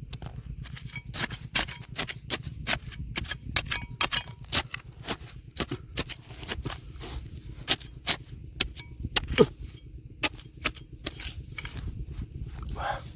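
Irregular sharp clicks and knocks of stones and gravel being dug through and handled, several a second, over a steady low rumble.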